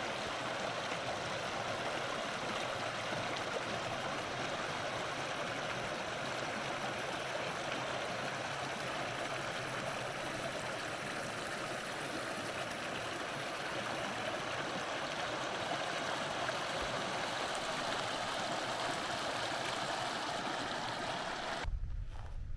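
Steady rush of running water from a stream, even and unbroken, cutting off abruptly near the end.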